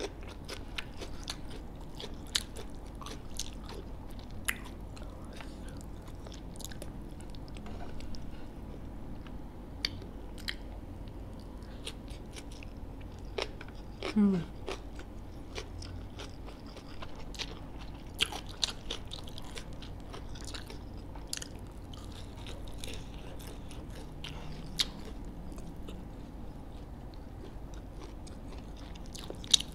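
A person chewing and biting close to the microphone, with crisp crunches and small mouth clicks scattered through, from eating crispy deep-fried chicken.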